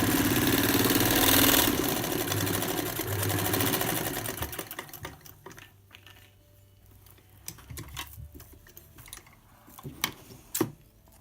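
Vintage cast-iron Singer sewing machine running fast, its needle stitching at a rapid even rhythm over a low motor hum, then stopping about five seconds in. A few light clicks and knocks follow.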